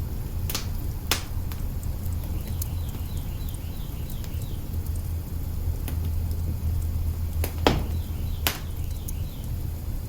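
Log fire burning in an open hearth, crackling with a few sharp pops, the loudest about three quarters of the way through, over a steady low rumble.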